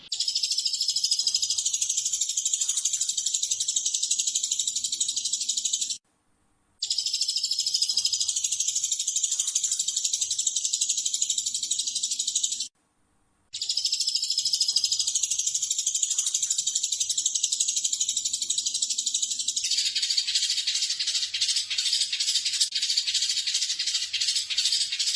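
Recorded songbird masteran song: a dense, rapid, high-pitched chattering burst song. The same passage of about six seconds plays three times with short silent breaks between. Near the end a different passage follows, a faster rattling trill.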